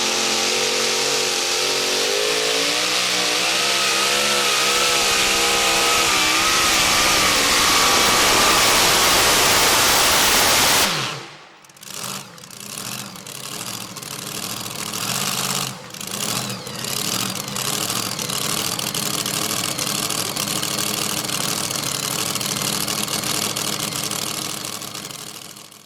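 Modified two-wheel-drive pulling truck's engine running at full throttle under load as it drags the sled down the track, its revs wavering up and down. The sound cuts off abruptly about eleven seconds in, followed by a quieter, uneven engine sound that fades out at the end.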